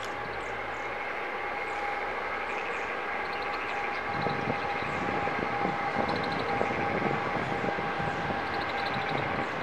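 Electric locomotive hauling passenger coaches past. It gives a steady drone with a high hum. From about four seconds in, the coaches' wheels rumble and clatter on the rails as they follow.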